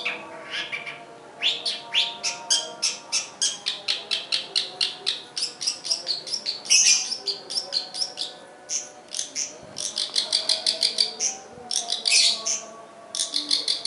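Caged long-tailed shrike (pentet/cendet) singing a fast, sustained run of short, sharp notes, about four a second, broken by a few brief pauses.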